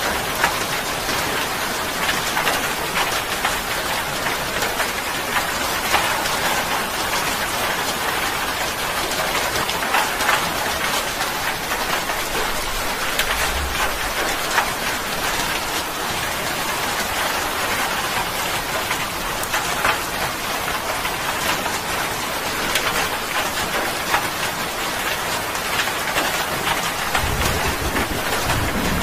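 Steady rain, a dense hiss of pattering drops with sharper individual drop hits. A low rumble of thunder comes in near the end.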